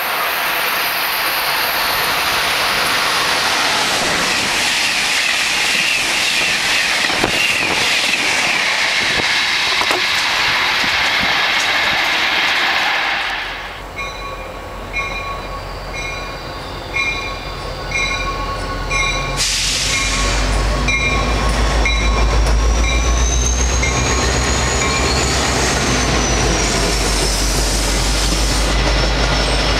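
A train passing on the rails at speed, a loud, even rushing of wheels on track that drops away about 13 seconds in. After it a regular ringing tone pulses a little more than once a second over a low rumble.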